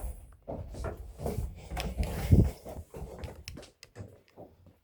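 A string of irregular knocks and clunks, like things being handled or set down, the loudest about two and a half seconds in, thinning to a few faint ticks near the end.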